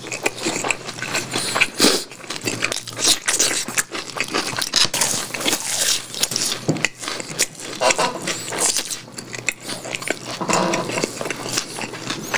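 A person chewing sauced fried chicken and fried rice close to a microphone: a steady run of small bites, clicks and mouth noises.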